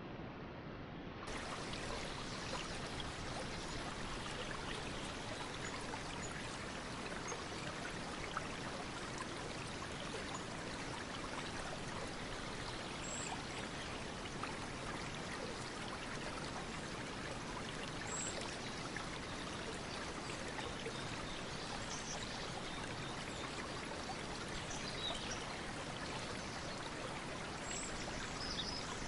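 Stream water running steadily. About a second in, the sound becomes brighter and slightly louder, and a few short, faint high chirps come and go.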